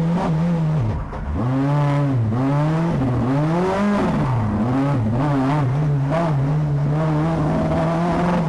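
Group B rally car engine revving hard on a stage, its pitch climbing and dropping sharply again and again through gear changes and lifts, with a deeper drop in revs about a second in.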